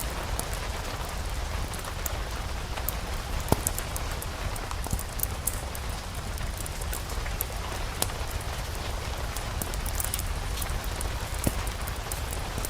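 Steady rain falling, mixed with scattered sharp crackles and pops from a wood fire in a fireplace.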